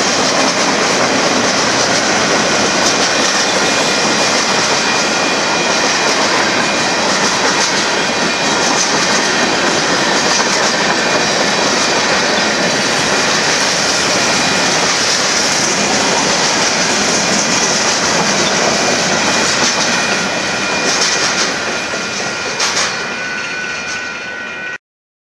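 Freight cars of a Union Pacific manifest train rolling through a grade crossing, a loud steady rush of wheels on rail. It grows quieter over the last few seconds as the last cars pass, then cuts off suddenly near the end.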